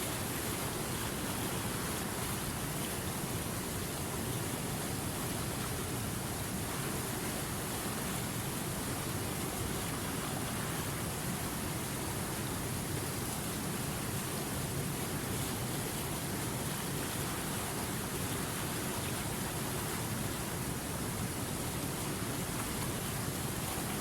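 Running river water rushing steadily, one even noise without breaks or changes.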